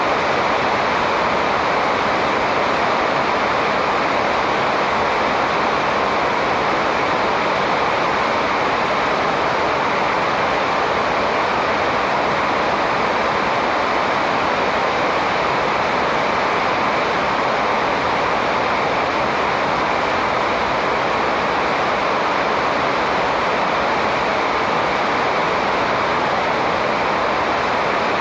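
Steady, even rushing noise that does not change; no birdsong stands out.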